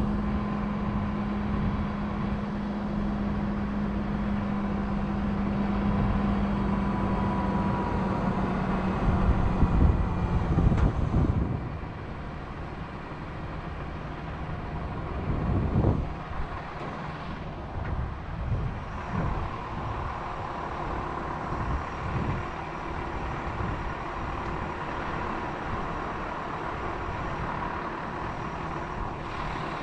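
Crane engine running steadily under load, with a strong hum that drops away about eleven seconds in as the engine settles to a quieter run. A few knocks follow.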